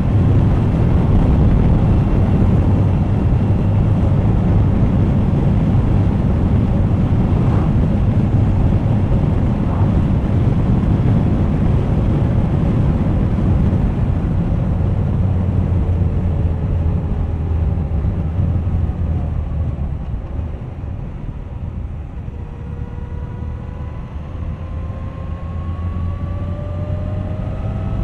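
Suzuki GSX1250FA's inline-four engine running under way, with heavy wind rush over the camera. Past the middle the sound eases a little, then the engine note rises steadily as the bike accelerates.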